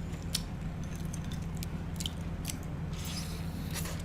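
Close-miked chewing of grilled baby bok choy: scattered crisp, crunchy clicks and wet mouth sounds, over a steady low hum.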